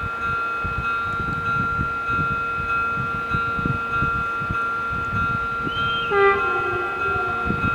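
Level crossing warning bells sounding steadily. About six seconds in, the horn of the approaching train sounds once for about a second and a half, its pitch sagging slightly at the end.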